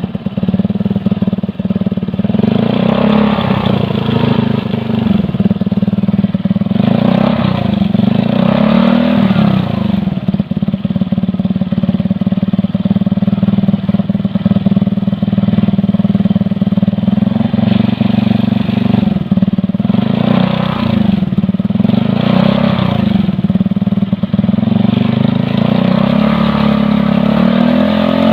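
Motorcycle engine idling through an aftermarket Scorpion exhaust fitted with a dB killer baffle, revved up and back down several times.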